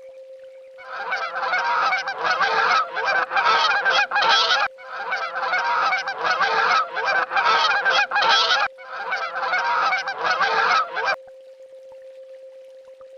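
A flock of swans honking, in three stretches of dense, overlapping calls that each stop abruptly, the last about eleven seconds in. A steady faint hum-like tone runs underneath.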